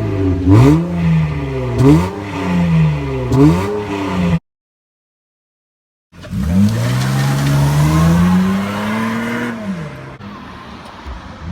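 2003 Acura TL Type S V6 running with its mufflers cut off, blipped three times in quick succession. The sound cuts out for nearly two seconds, then the engine is revved up and held for about three seconds before dropping back to idle.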